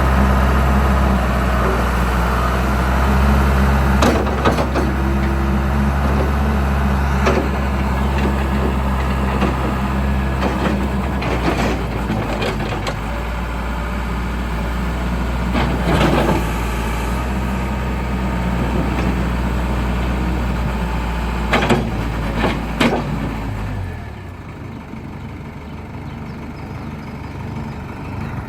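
Case 580L backhoe's diesel engine running steadily while the machine is worked, with scattered knocks and clunks. About 24 seconds in, the engine sound drops away, leaving a quieter background.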